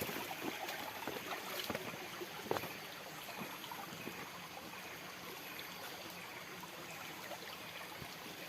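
Faint steady outdoor hiss, with scattered light clicks and rustles and one sharper click about two and a half seconds in.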